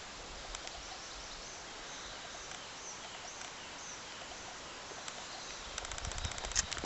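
Faint small-bird chirps in a quick series over a steady rural background hiss. Near the end, footsteps start again on the lane.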